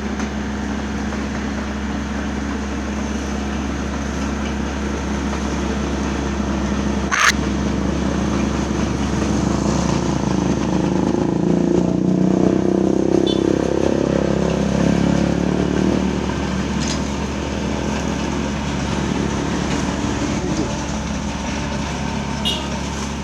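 Motor vehicle engine running steadily, swelling louder for several seconds midway, with one sharp click about seven seconds in.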